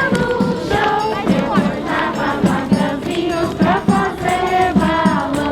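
A group of voices singing a festa junina song together over a steady low drum beat.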